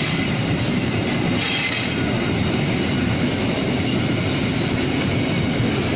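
Pertamina fuel tank-wagon freight train passing, a steady loud rumble of wheels on rail with a brief high wheel squeal about a second and a half in.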